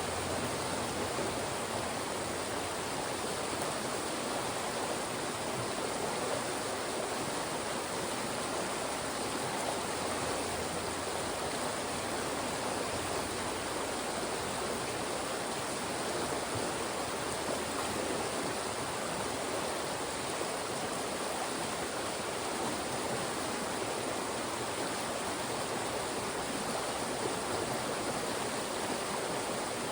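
Fast-moving mountain stream rushing through narrow channels between rocks, a steady even rush of water.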